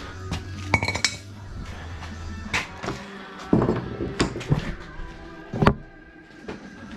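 A handful of sharp metallic clinks and knocks, hard objects being handled and set down, over background music.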